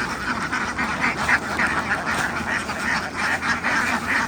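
A large flock of domestic ducks quacking all at once, a steady chorus of many overlapping calls.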